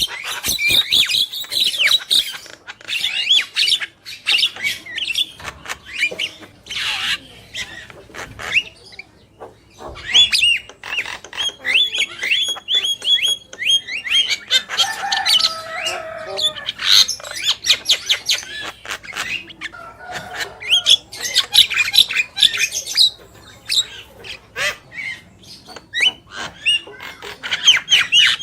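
Javan mynas chattering and singing without pause: a rapid jumble of clicks, short whistles and harsh squawks, with a rougher, lower run of calls about halfway through.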